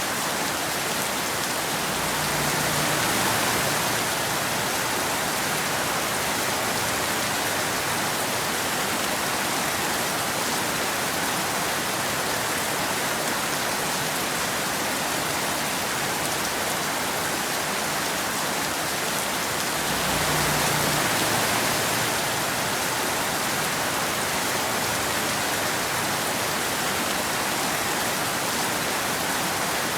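Steady rain falling, an even dense hiss that swells slightly twice.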